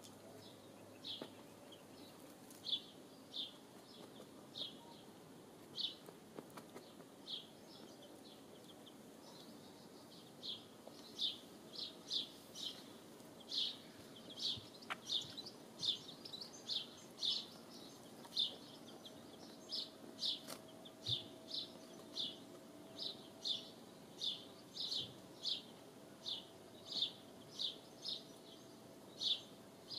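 A small bird chirping: short high notes repeated over and over, about one a second at first and then about two a second from roughly ten seconds in.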